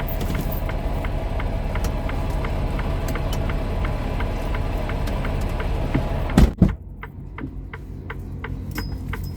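A truck's engine idling with a steady low rumble and a regular ticking about twice a second; about six and a half seconds in a door shuts hard, after which the engine is heard much more faintly.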